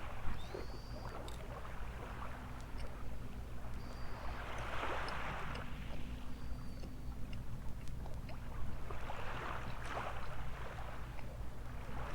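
Small waves washing up on a sandy beach, a soft surge rising and falling every four to five seconds.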